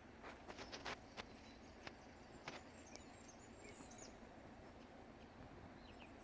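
Faint woodland ambience: a steady low wind rumble with a few thin, high bird chirps, and several sharp clicks in the first couple of seconds.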